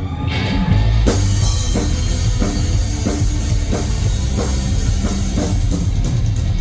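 Live rock band playing an instrumental passage, the drum kit keeping a steady beat of a few strokes a second over bass and guitar. The full band comes in louder about a second in.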